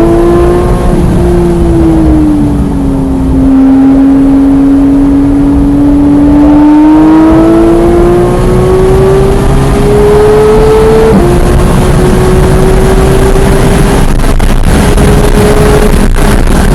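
Porsche 991.1 GT3's naturally aspirated 3.8-litre flat-six under hard track driving. The revs ease off briefly, then climb steadily, drop sharply at an upshift about eleven seconds in, and climb again before falling with quick wavers near the end as it slows for a corner.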